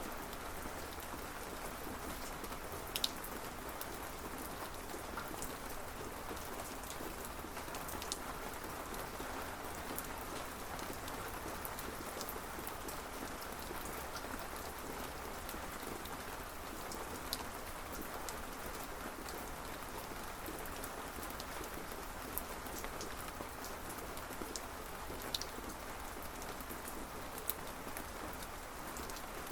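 Steady rain falling, with now and then a sharper single drop hit standing out.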